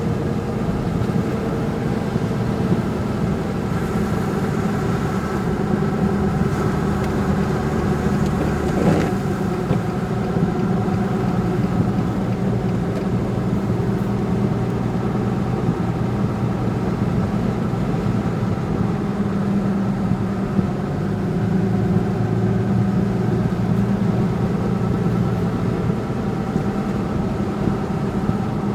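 Steady engine drone and road noise of a vehicle being driven, with a brief click about nine seconds in.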